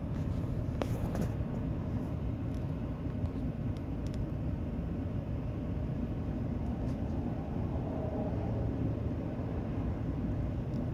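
Steady low rumble of a running vehicle, with a few faint clicks about a second in.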